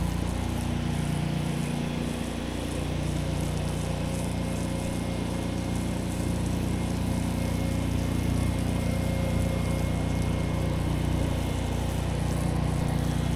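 Gas engine of a pressure washer running steadily under load, with the high-pressure water jet hissing onto concrete.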